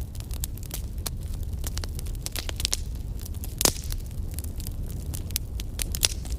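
Wood fire burning with frequent sharp crackles and pops over a low steady rumble, one louder pop a little past halfway.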